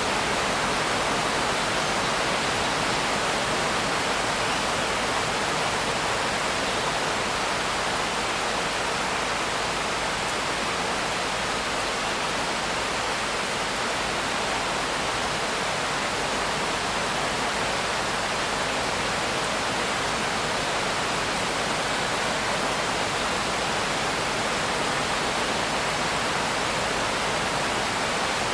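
Steady rain: an even, unbroken hiss with no single drops, thunder or other events standing out.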